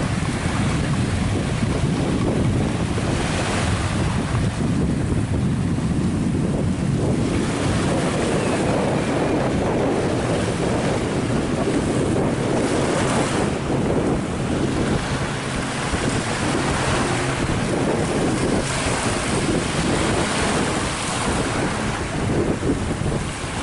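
Strong wind buffeting the microphone over the rush of the sea, a steady, heavy noise without distinct events.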